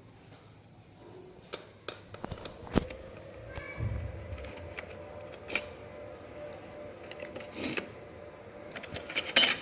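Scattered light clicks and knocks of plastic parts and a wiring connector being handled during disassembly of a car's dashboard navigation unit, with one firmer knock about three seconds in and a quick run of clicks near the end.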